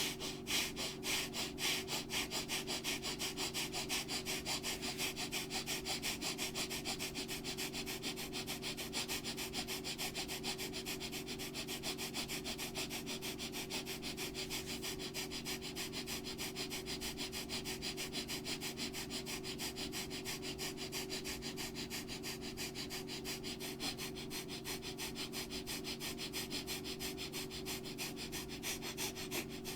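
A person doing Bhastrika (bellows breath) pranayama: rapid, forceful, even inhales and exhales through the nose, driven from the diaphragm and abdomen, in a steady rhythm of about two to three breaths a second. A steady low drone of a few held tones sounds underneath.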